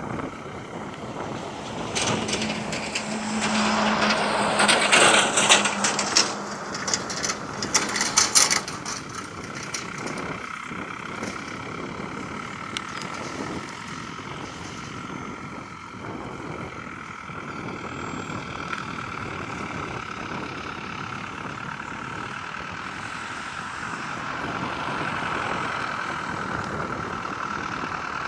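Aircraft engine noise at an airport, a steady whine under a wash of noise, with loud wind buffeting the microphone from about two seconds in to about nine seconds.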